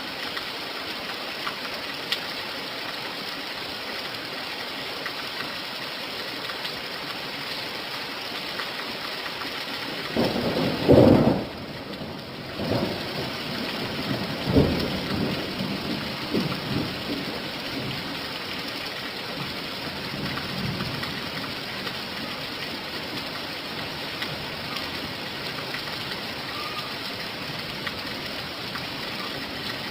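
Steady rain falling. About ten seconds in, a clap of thunder rumbles, loudest at first and then rolling on in smaller rumbles for several seconds.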